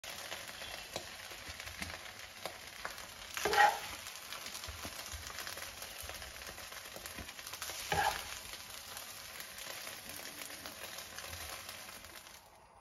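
Brown-rice and vegetable stir-fry sizzling in a frying pan as a metal spoon scoops it out: a steady hiss with many small pops, and two louder spoon scrapes against the cookware about three and a half and eight seconds in. The sizzle cuts off just before the end.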